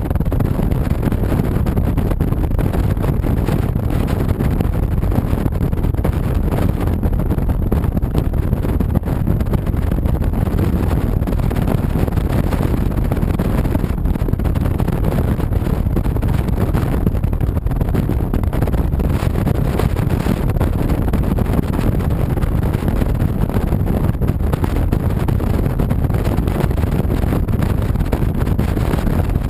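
Steady wind rushing over the microphone of an action camera on a moving 2007 Honda VTX 1300C motorcycle, with the cruiser's V-twin engine running under it at cruising speed.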